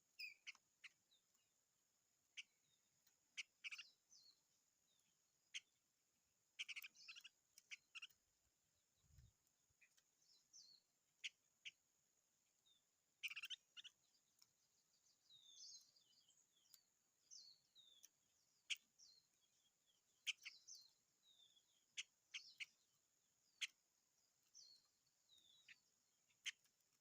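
A small songbird calling in short chirps and brief falling whistled notes, one every second or so with short pauses between, over a faint steady high hiss.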